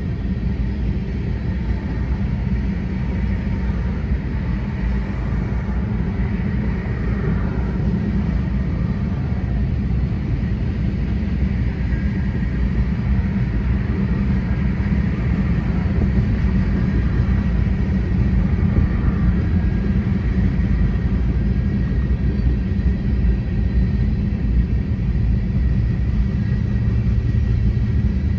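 Empty covered hopper cars of a freight train rolling past: a steady, loud rumble of wheels on rail, with faint high tones from the wheels over it.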